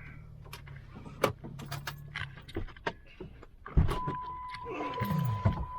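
Jeep engine running low and slow over rocks, with many clicks, knocks and rattles of loose gear inside the cab. A loud clunk comes a little past halfway, and a steady high electronic tone sets in right after it.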